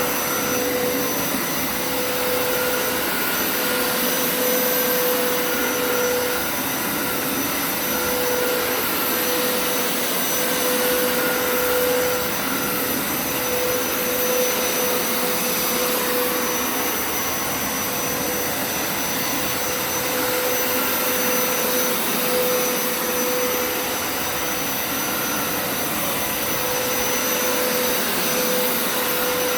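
Hoover Turbo Scrub carpet cleaner running steadily: a motor whine over rushing suction air, the whine dipping briefly every second or two.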